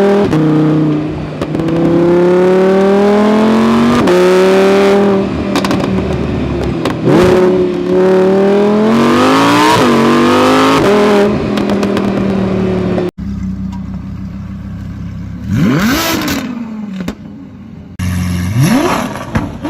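Nissan GT-R accelerating hard through several gears, the engine pitch climbing and dropping back at each upshift. About 13 s in the sound cuts to a quieter stretch with a few short revs rising and falling.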